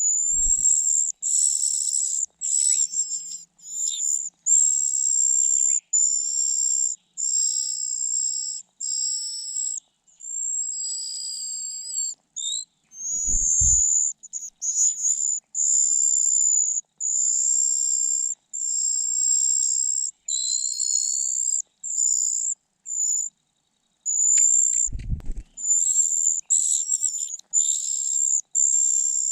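Nestlings begging for food with high, thin, whistled calls, each a short steady note repeated about once a second with brief pauses. Three dull low thumps are heard: at the start, about halfway, and near the end.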